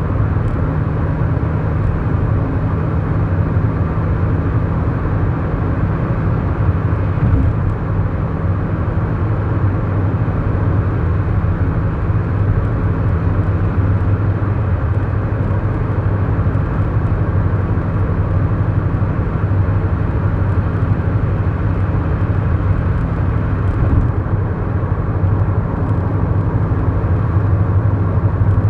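A 2011 Kia Morning's 999cc four-cylinder engine running with a steady, unchanging hum, along with tyre and road noise, heard from inside the car's cabin while it drives at a constant speed.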